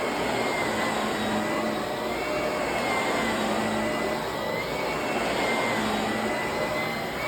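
Vacuum cleaner running steadily: a rushing airflow with a high motor whine that rises slightly and settles back every couple of seconds.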